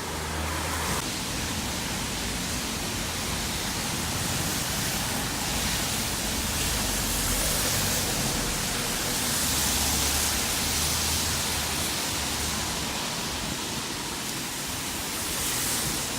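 Steady outdoor hiss with low rumbles that swell and fade a couple of times.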